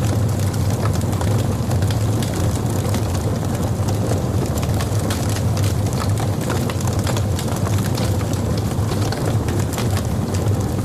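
Log fire burning in a fireplace: a steady low rumble with frequent small crackles and pops throughout.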